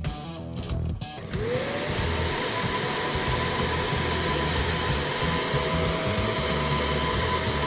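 A vacuum cleaner is switched on about a second in. Its motor whine rises as it spins up, then it runs steadily with a loud even rush of air. Music plays briefly before it starts.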